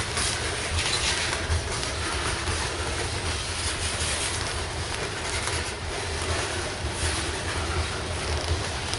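A loaded coal train rolling past on the rails: a steady rumble with hiss of wheels on track.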